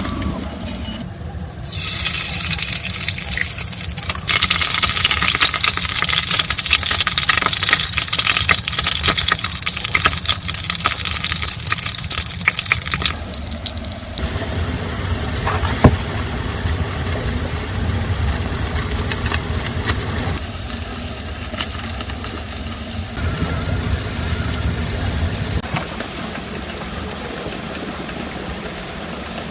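Heavy rain pouring steadily, in several shots cut together: loudest through the first half, then a little quieter.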